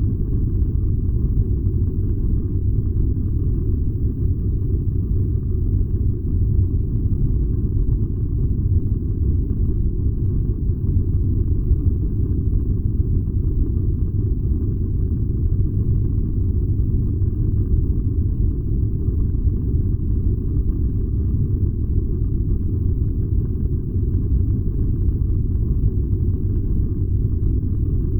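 Furnace running with a steady, unbroken low rumble.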